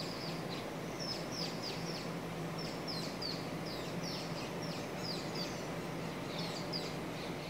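Small birds chirping over and over in short, high, falling notes, about two or three a second, over a steady outdoor hiss and a faint low hum.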